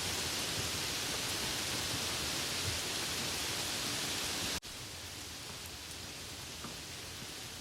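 Steady hiss of soft rain falling. A little over halfway through it cuts out for an instant and comes back noticeably quieter and softer.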